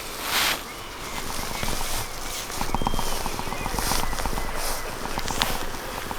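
Rustling and footsteps in woodland undergrowth, with a fast run of short ticks in the middle and a low wind rumble on the microphone from about halfway.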